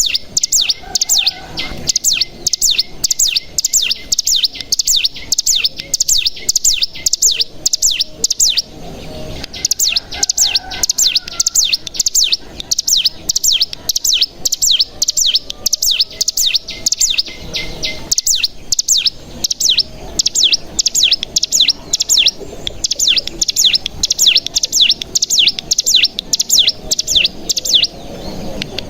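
Ciblek gunung, a small mountain prinia, singing its rapid 'ngebren' song: a long run of sharp, high, downslurred notes, several a second, broken by short pauses about nine and eighteen seconds in.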